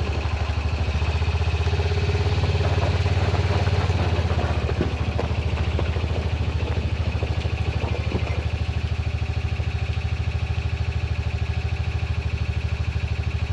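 Utility side-by-side's engine running at a steady speed on the move: a low, even drone with a fast regular pulse, and a few light rattles about five and eight seconds in.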